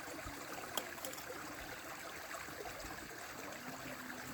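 Faint, steady rush of running water, with a single sharp click a little under a second in.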